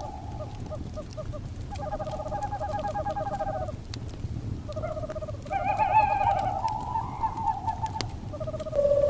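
Crackling fire with sharp pops and a low steady rumble, over which owl calls come in two runs of rapid pulsed notes. Just before the end a steady tone begins.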